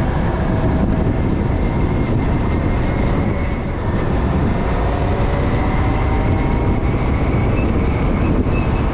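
Motorcycle riding at speed: a steady rush of wind and road noise, with the engine's faint, even hum beneath it.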